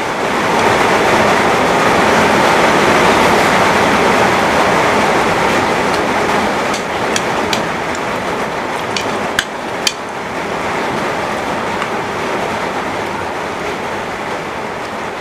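Heavy rain falling steadily, with a few sharp clicks scattered through it.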